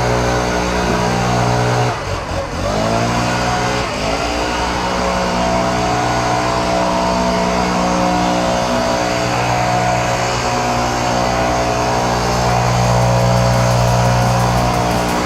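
Stihl BR600 backpack blower running at high throttle. It drops off briefly and revs back up about two seconds in, then again about four seconds in, before running steadily.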